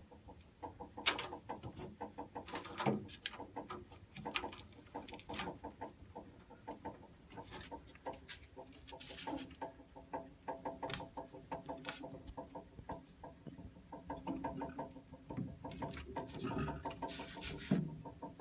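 Water heater making a rapid, irregular ticking and clicking, with louder sharp clicks every second or two over a faint hum.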